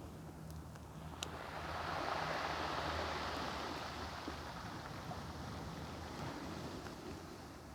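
Pacific Ocean waves washing onto the shore, one wave rushing in about a second in and slowly fading away. A crackling wood campfire gives one sharp pop about a second in and a few faint ticks.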